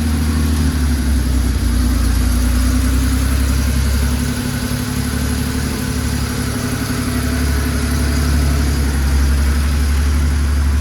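Air-cooled turbocharged flat-six of a 1991 Porsche 911 Turbo (964) idling steadily on a dead-cold start, moments after firing up.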